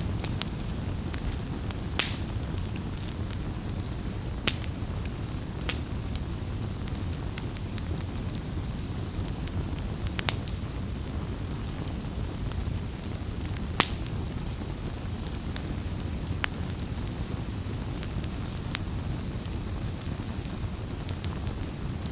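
Wood campfire crackling over a steady low rumble, with frequent small clicks and a few sharp, louder pops, the loudest about two seconds in and about fourteen seconds in.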